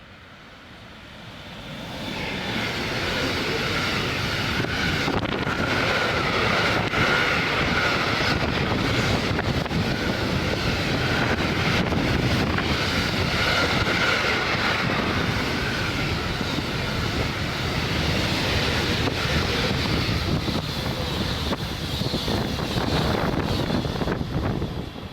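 A freight train passing close by: rolling wheel-and-rail noise that builds over the first couple of seconds, then holds steady, with a hissing ring in the rails and frequent short clicks of wheels over rail joints.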